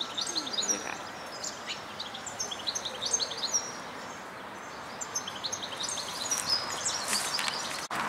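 Small birds chirping and singing, with many short high calls in quick runs, over a steady background hiss.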